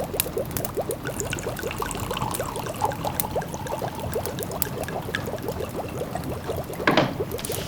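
Pot of food simmering, bubbling in a fast, steady stream of little pops, with sharp crackles from a wood fire scattered over it and a louder bubbling surge about seven seconds in.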